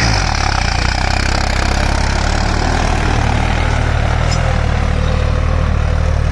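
Farmtrac 60 PowerMaxx tractor's diesel engine, fitted with an added turbocharger and with its fuel turned up, running at a steady speed. The revs dip slightly right at the start, then hold.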